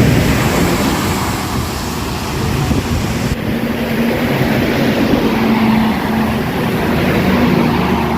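Heavy rain and highway traffic: a steady rush of rain and tyre noise, with a low vehicle engine hum coming in about halfway through.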